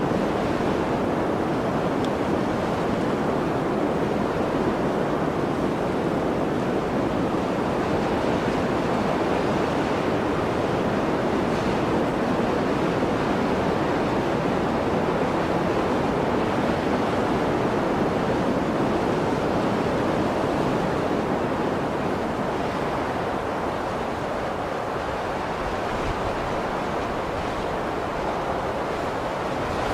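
Blizzard wind blowing as a steady, dense rush with no whistling tone, easing off slightly about two-thirds of the way through.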